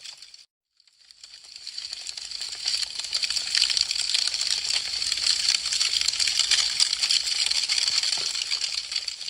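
Wood fire crackling: a dense stream of sharp little pops and snaps. It fades out to silence just after the start, then fades back in over about two seconds and carries on steadily.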